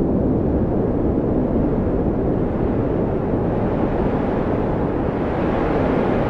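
Blizzard wind blowing steadily as a deep, low rush, growing brighter and hissier near the end as a gust builds.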